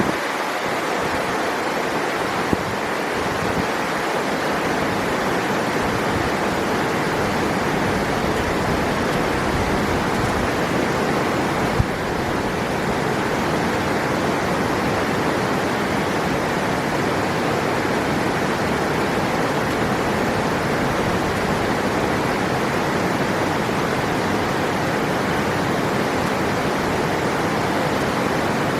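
River water rushing steadily over rocks, an unbroken roar of flowing water. A short click sounds twice, a couple of seconds in and about twelve seconds in.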